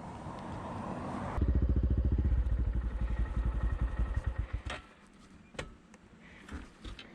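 Honda Monkey 125's single-cylinder four-stroke engine heard close up, with a rising rush of noise first, then a loud, fast, even exhaust pulse about a second and a half in that stops abruptly nearly five seconds in, followed by a few small clicks.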